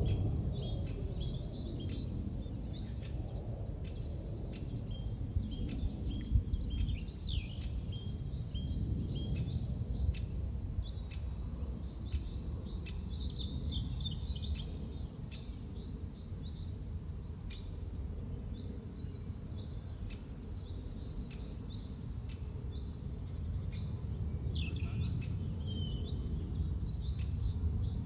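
Small songbirds chirping and singing in quick short phrases, busiest in the first half and again near the end, over a steady low rumble.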